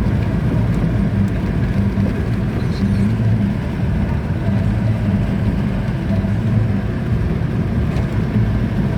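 Steady engine and road rumble heard from inside a moving matatu minibus.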